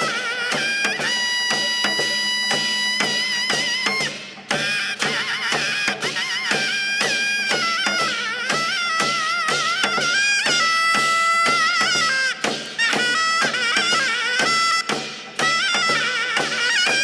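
Korean traditional ritual music: a reedy wind instrument plays a melody of held, wavering notes over steady drum strokes.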